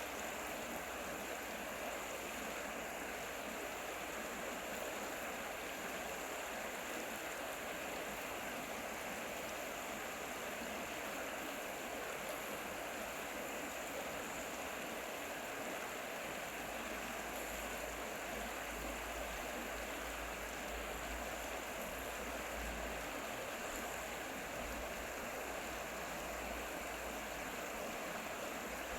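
A mountain stream running over rocks, a steady rushing and babbling of water. A faint low rumble joins in from about halfway through and fades near the end.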